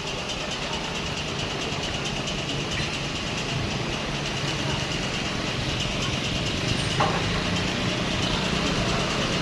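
Truck engine running steadily, with a steady high-pitched hiss above it and a single sharp knock about seven seconds in.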